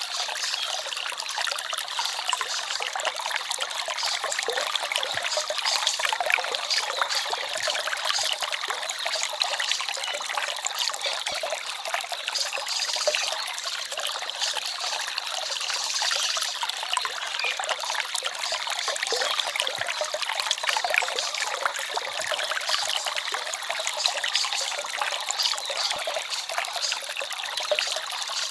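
A small stream trickling and babbling steadily, a continuous light splashing of running water.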